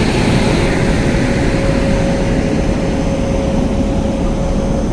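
A standing train's machinery running steadily at the platform: a fan-like rush with a steady whine that stops near the end.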